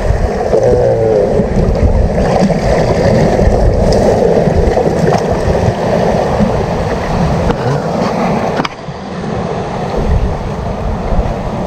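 Steady rushing of sea waves washing over rocks, mixed with wind buffeting the microphone. The level drops briefly about two-thirds of the way through.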